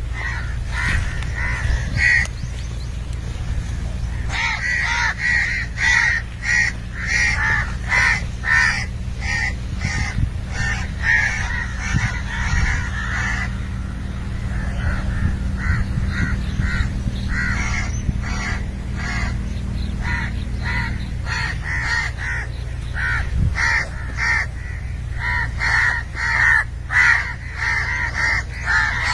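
A flock of birds giving harsh calls in quick succession, a few a second, pausing briefly now and then, over a steady low rumble.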